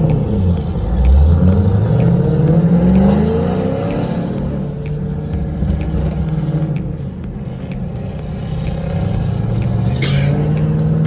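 A car engine accelerating, its pitch rising for a couple of seconds, then running steadily before rising again near the end.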